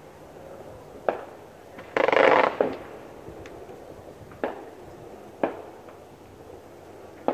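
Fireworks going off: separate sharp bangs, each with a short echoing tail, about a second in, twice between four and six seconds and again at the end, and the loudest event, a dense crackling burst lasting about half a second, around two seconds in.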